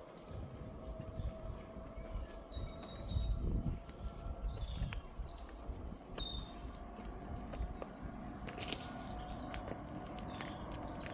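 A few short, high bird chirps over low rumbling wind on the microphone, with a faint steady hum and scattered light clicks.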